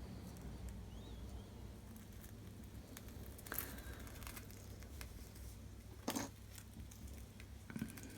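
Faint crackling and scraping as a separating wire is drawn through the adhesive between cracked iPhone 5C front glass and its LCD, with sharper crackles about three and a half and six seconds in. A low steady hum runs underneath.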